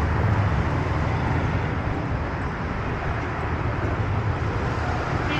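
Steady city street traffic: a continuous rumble of engines and tyres from vehicles on the road, with no single event standing out.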